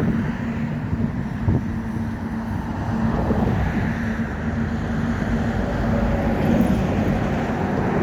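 Steady motor vehicle running noise: a low rumble with a constant hum.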